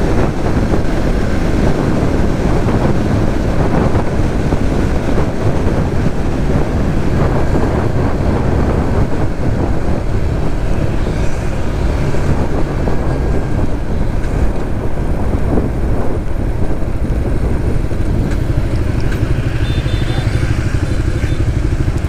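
Suzuki GSX-S150's single-cylinder four-stroke engine running steadily while riding, mixed with wind and road noise, heard from on the motorcycle.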